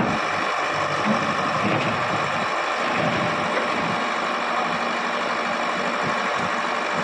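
Heavy diesel engine running steadily, with no change in speed.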